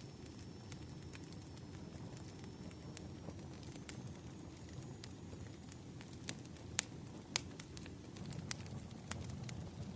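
Burning firewood crackling: scattered sharp pops and snaps over a steady low rumble, with the two loudest pops a little past the middle.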